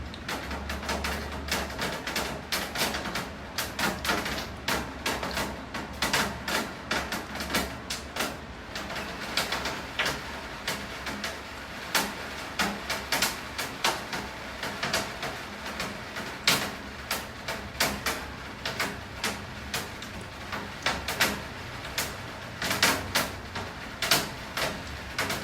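Steady rainfall, with many heavy drops striking a hard surface in irregular sharp taps over a constant hiss of rain.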